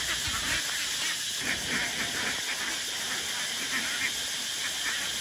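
A steady high-pitched hiss. A low rumble beneath it cuts off about half a second in.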